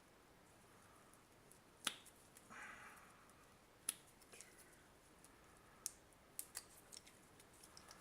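A few sharp clicks and a brief faint rustle of small parts being handled: batteries being fitted into a multimeter's battery holder.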